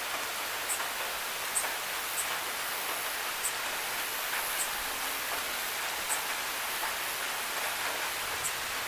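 Steady rain falling, an even hiss with single drops ticking sharply every second or so.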